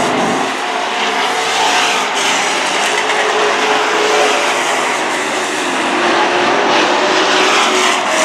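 Several racing super trucks' engines running together at speed, a steady loud drone with engine pitch rising and falling as the trucks go by.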